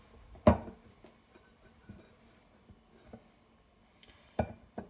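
Sharp knocks and clinks of a milk jug being handled and set down while it is filled with milk: one clear knock about half a second in, a few faint taps, and two more knocks near the end.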